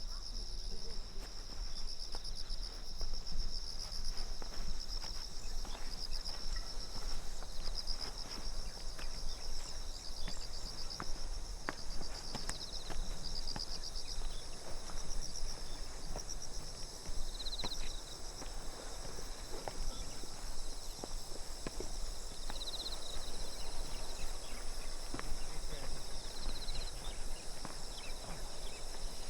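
Insects trilling steadily in several high-pitched, pulsing bands, with the light, irregular steps of someone walking on a path.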